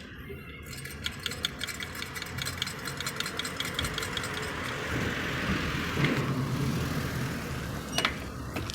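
Engine running, with rapid sharp ticking at first and then louder, with a sharp pop about six seconds in and another near the end: the gunshot-like 'pat pat' bangs whose cause the owner is asking about.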